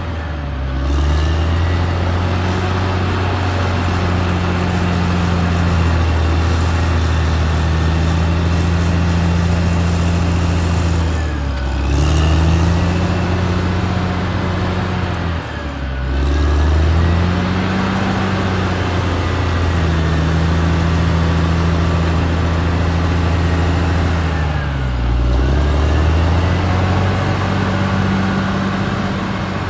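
Caterpillar D6R XL bulldozer's diesel engine running hard, its pitch dipping sharply and recovering several times as the machine is loaded and eased, with a faint whine rising and falling above it.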